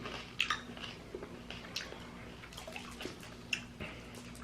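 Faint wet clicks and smacks of a mouth sucking on a hard candy, scattered irregularly over a low room hum.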